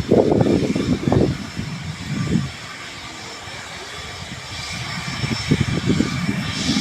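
Jet aircraft engines running: a steady whining hiss with faint high tones, swelling near the end, under irregular low rumbling gusts.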